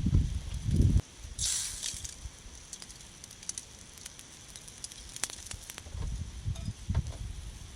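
Wind buffeting the microphone, cutting off suddenly after about a second. It gives way to quiet fire crackle with scattered sharp pops and a short hiss; the wind rumble returns near the end.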